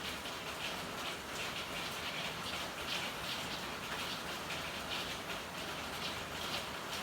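Steady rain with a constant hiss and frequent drops spattering over it, a few each second.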